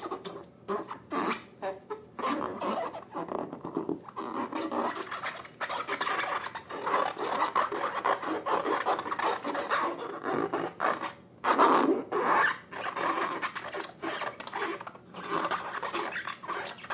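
Irregular rubbing and scraping in quick, uneven strokes, from hands working rubber balloons and slime.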